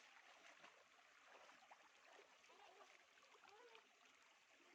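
Faint, steady sound of a small stream's water flowing.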